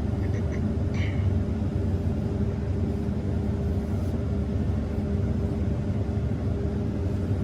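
Combine harvester running with a steady low drone, with a few faint short high chirps between half a second and a second in.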